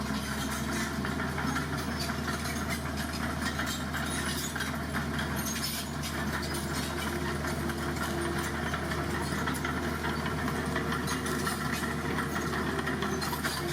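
Dump truck's diesel engine running steadily at an even pitch.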